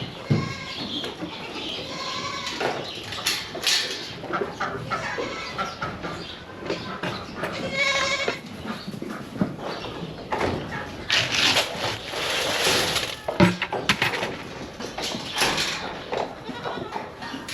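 Goats bleating, several separate calls among other barnyard noise.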